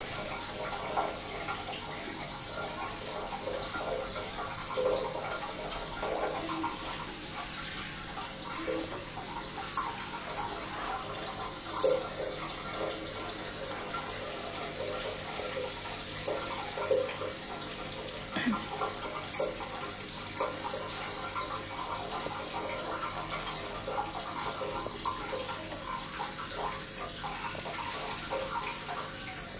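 Water running steadily, with short irregular sounds scattered over it.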